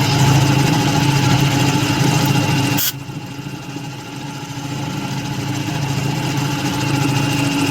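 A shop machine's motor running with a steady hum; about three seconds in the sound drops sharply with a click, then slowly builds back up.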